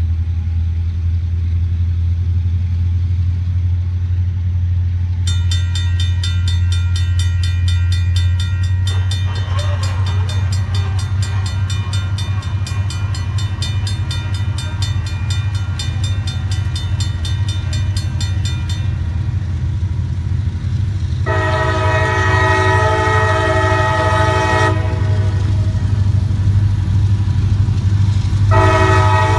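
Diesel freight train led by a CSX SD40-3 locomotive, its engines giving a steady low rumble. A bell rings rapidly for about fourteen seconds from around five seconds in, then the horn sounds one blast of about three and a half seconds, and a second blast starts near the end.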